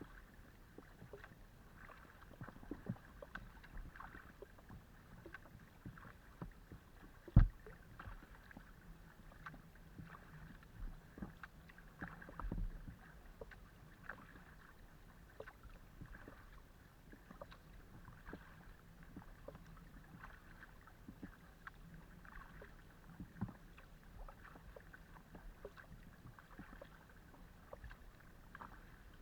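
Kayak paddling: steady paddle strokes with water splashing and dripping off the blades, and small knocks carried through the hull of a Decathlon Itiwit x500 kayak. One sharp, loud knock comes about seven seconds in.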